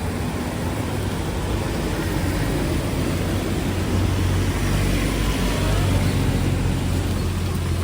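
Street traffic: a vehicle engine running close by with a steady low drone, over a general road hiss.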